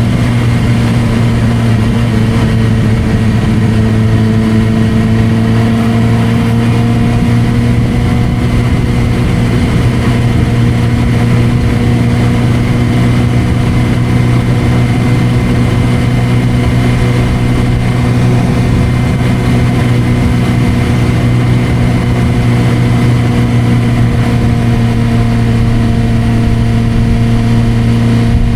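Suzuki GSR600's inline-four engine running at steady revs through an aftermarket Dominator exhaust, its pitch shifting only slightly now and then.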